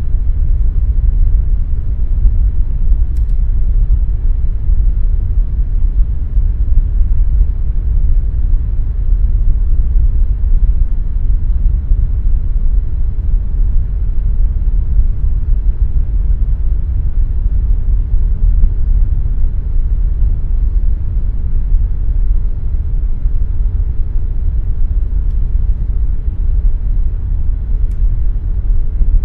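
Air conditioner running steadily: an even, deep rumbling whoosh of air and fan with a faint constant hum.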